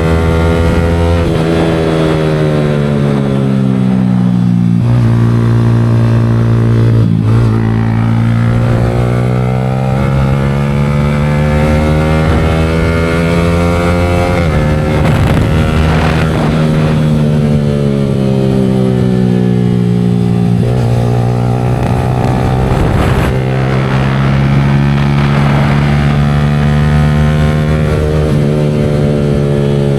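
Yamaha R15 V4's 155 cc single-cylinder engine running through an aftermarket Leo Vince exhaust, its pitch slowly climbing and falling with engine speed, broken by a few sudden steps in pitch.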